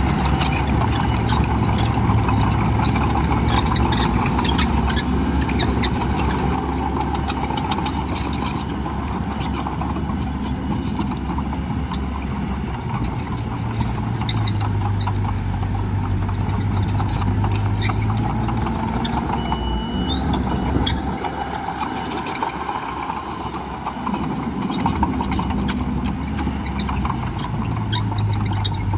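Heavy diesel earthmoving machinery running, its engine revving up and down several times over a steady rumble.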